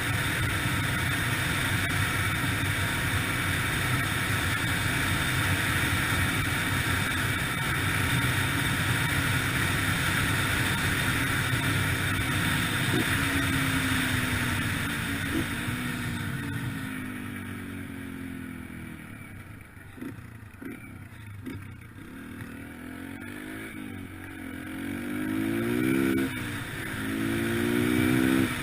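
Yamaha TT-R125LE dirt bike's single-cylinder four-stroke engine under way, with a steady rush of noise at speed. About two-thirds in, the bike slows and the engine quietens. It then revs up repeatedly in rising sweeps as it pulls away through the gears.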